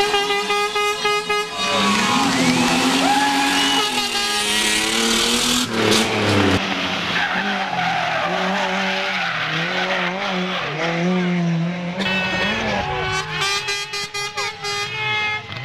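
Rally car engines revving hard at full throttle, the note climbing and dropping back again and again with gear changes as the cars pass, loudest in the first second and a half and again a few seconds before the end.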